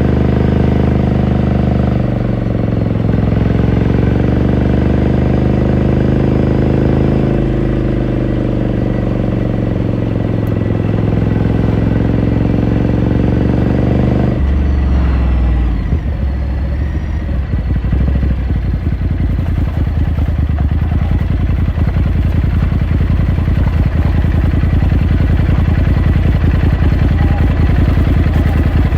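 Ducati Scrambler Sixty2's air-cooled 399 cc L-twin heard onboard through its stock exhaust: a steady engine note under way, dipping and changing pitch a couple of times, then about halfway in it drops abruptly to an uneven, lumpy low burble at low revs.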